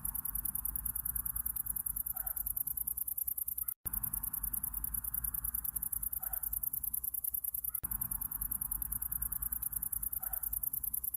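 Summer-night ambience dominated by a very high, rapid, continuous chirring of crickets. Under it is a softer hiss with faint calls that come back every few seconds. The sound cuts out completely for an instant about four seconds in.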